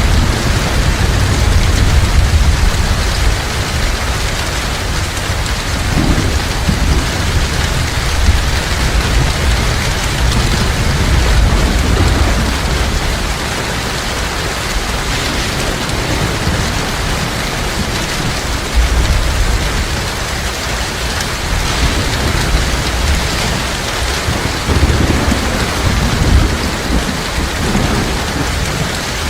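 Heavy rain pouring steadily, with low rolls of thunder rumbling underneath, swelling and fading several times.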